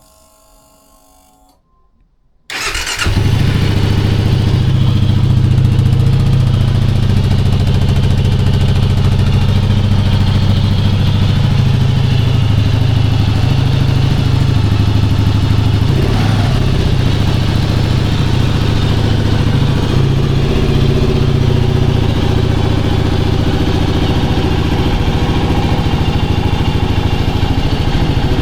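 2022 Kawasaki KLR 650's single-cylinder engine starting about two and a half seconds in, then idling steadily through the stock exhaust.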